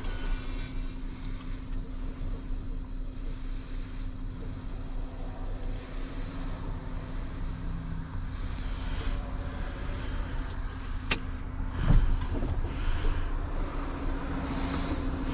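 A truck's low-air-pressure warning buzzer sounding a steady, high-pitched tone that cuts off suddenly about 11 seconds in, as the air brake system is charged above the warning level. A steady low engine hum runs underneath.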